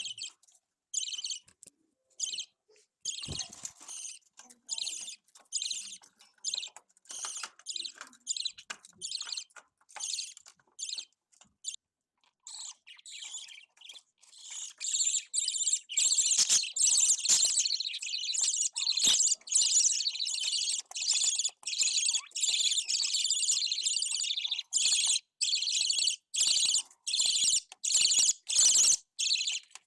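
Young budgerigars calling with short, raspy, high-pitched chirps repeated about twice a second. About halfway through the calls grow louder and run almost without a break.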